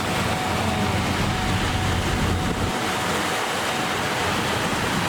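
Steady rushing road and wind noise of a moving car, with a faint thin steady tone that stops about four seconds in.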